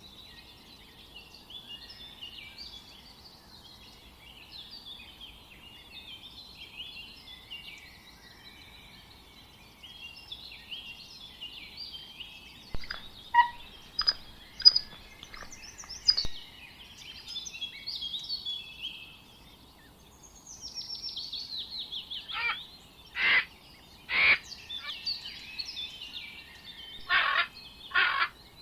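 Birds singing and chirping: a busy chorus of short high notes, with louder sharp calls from about halfway through and a fast falling trill about two-thirds of the way in.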